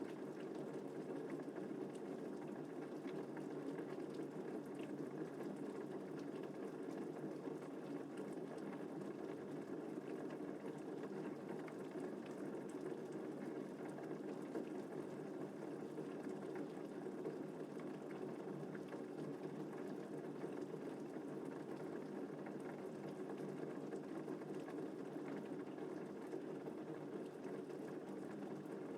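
Steady rain falling evenly, with no thunder.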